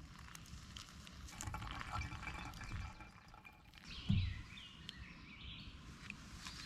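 Campfire coals crackling with scattered sharp pops, a single dull thump about four seconds in, and a bird singing faintly.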